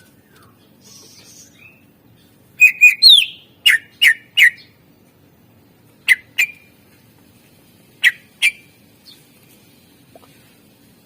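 Cucak ijo (green leafbird) calling in loud, sharp whistled notes. About two and a half seconds in comes a burst: short chips, a rising-then-falling whistle and three quick down-slurred notes. Two pairs of down-slurred notes follow about two seconds apart.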